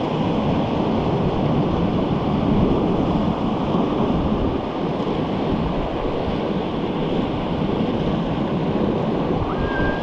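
Whitewater river rushing steadily, a continuous dense roar of water.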